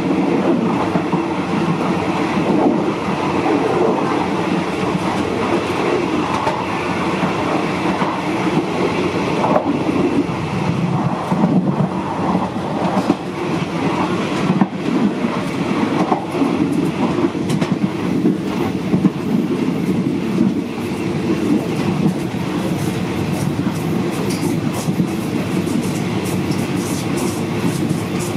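State Railway of Thailand train running steadily along the track: a continuous rumble of wheels on rail, with a few sharp clicks from joints and points.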